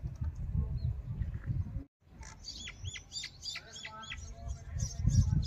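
Small birds chirping: a quick run of repeated high, hooked notes, about four a second, starting a little after two seconds in, over a low rumble of wind or handling noise. The sound drops out briefly just before the chirping begins.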